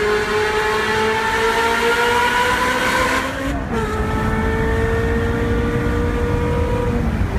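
Ferrari 360 Modena's flat-plane 3.6-litre V8 through a Kreissieg aftermarket exhaust, pulling with slowly rising revs. The F1 gearbox upshifts about three and a half seconds in with a sudden drop in pitch, then the engine pulls steadily again, easing off slightly near the end.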